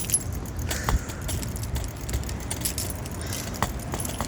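Irregular light metallic jangling and clicking from a bicycle being walked uphill, over a steady low rumble of wind and handling noise.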